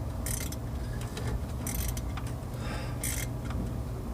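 Socket ratchet clicking in short runs about every second and a half, over a steady low rumble.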